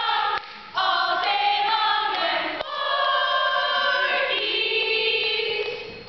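A group of voices singing together without instruments: a few short notes, then a long held chord over the last three seconds.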